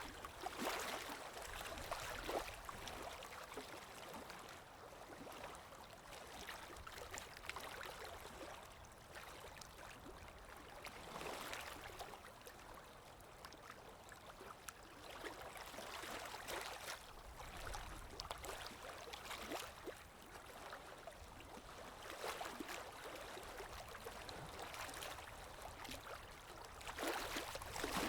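Underwater water ambience: muffled moving water with gurgling and bubbling that swells and fades every few seconds.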